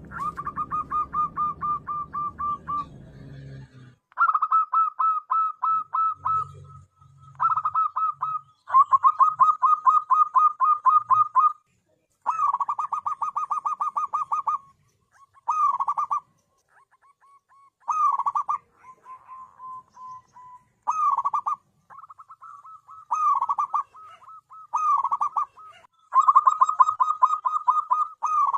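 Zebra dove (perkutut) singing: phrases of rapid staccato cooing notes, each lasting a second or two, repeated with short pauses between them. A low rumbling noise runs under the first few seconds.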